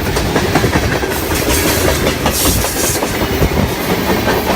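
A train passing close by: a loud, steady rumble with a rapid clatter of wheels over the rails.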